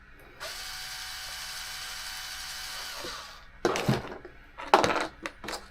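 A small handheld power tool whirs steadily for about three seconds and then stops. Several sharp clicks and knocks of small hard parts being handled follow.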